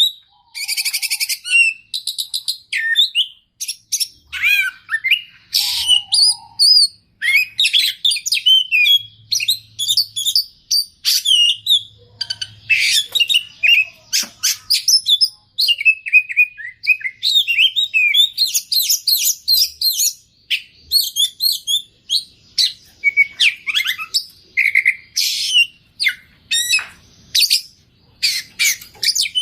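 Oriental magpie-robin (kacer) in full song: a rapid, almost unbroken stream of varied whistles, chirps and trills, packed with mimicked phrases of other birds.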